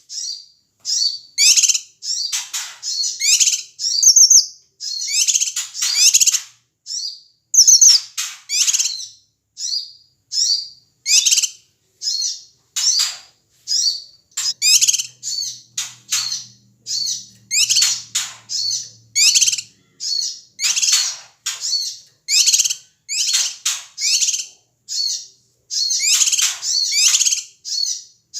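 A cucak kinoi (a leafbird) calling noisily, a continuous string of short, high-pitched chattering calls, about one to two a second, with no pause. It is the agitated 'ribut' calling used as a lure to provoke other songbirds.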